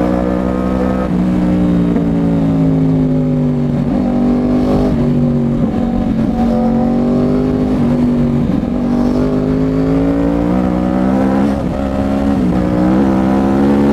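A 2011 Yamaha R1's cross-plane-crank inline-four, running loud through a Toce full-system exhaust while being ridden. The engine note rises and eases with the throttle, and the pitch steps and breaks several times as the rider works the throttle and gears.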